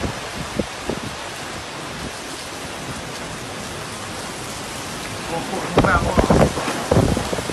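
Heavy rain pouring in a windstorm, a steady hiss; from about six seconds in, loud irregular gusts of wind buffet the microphone.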